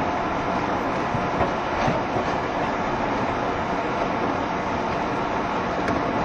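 JR Shikoku 7200 series electric train running at speed, heard from inside the car: a steady rumble of wheels on rail with a few faint clicks.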